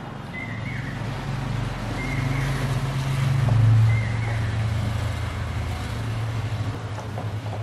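A low motor hum that swells, peaks about three and a half seconds in, then settles, with a few short high chirps over it.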